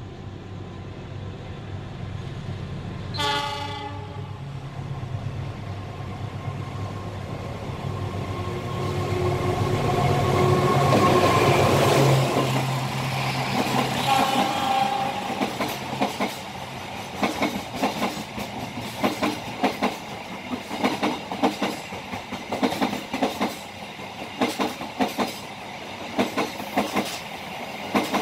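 A diesel train passing on the adjacent track. Its horn sounds briefly about three seconds in, the locomotive's engine rumble builds to a peak around twelve seconds in, and a second horn sounds just after. The carriages' wheels then clack over the rail joints in a quick, steady rhythm.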